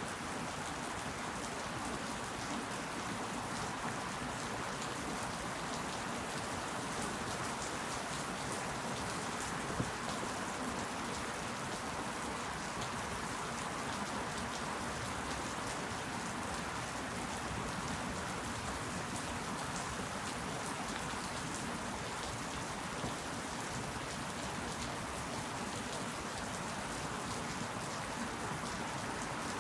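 Steady rain falling, an even dense hiss of countless drops, with a single sharper drop-hit standing out about ten seconds in.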